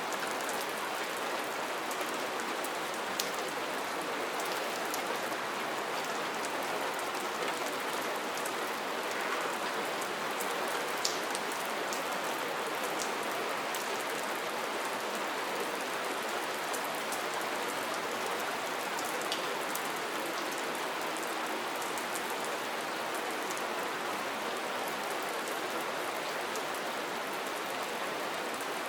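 Steady rain falling, a dense even patter with scattered sharper drop ticks.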